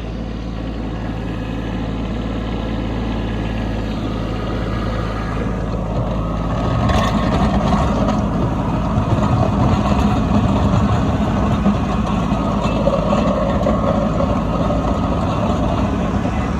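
Kubota B2601 compact tractor's three-cylinder diesel engine running, steady at first, then louder and rougher from about seven seconds in as it works harder.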